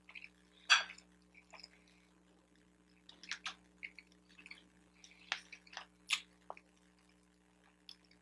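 Close-miked chewing of a bacon, egg and Swiss cheese everything-bagel sandwich: irregular, soft, wet mouth clicks and smacks, the loudest just under a second in and about six seconds in.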